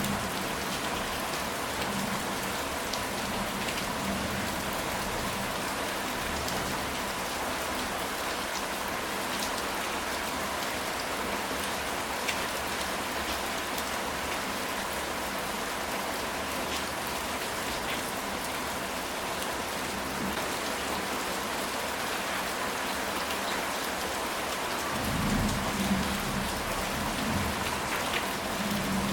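Steady rain on a ceramic tile roof, an even hiss with scattered drop ticks. Near the end a low rumble of thunder rolls in.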